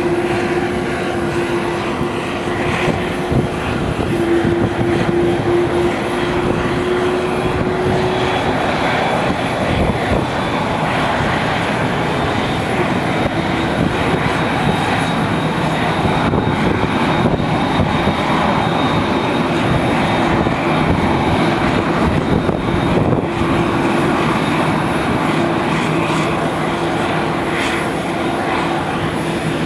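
Aircraft engines running loud and steady. A held low tone sits under dense engine noise, and a faint high whine comes in about eight seconds in.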